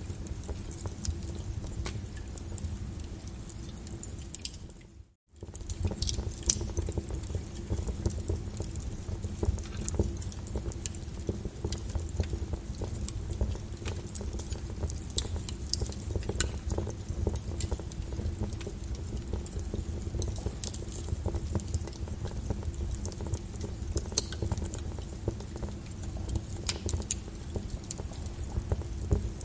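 Wood fire in a fireplace crackling, with irregular sharp pops over a low steady rumble of the flames. The sound briefly drops out about five seconds in, then carries on.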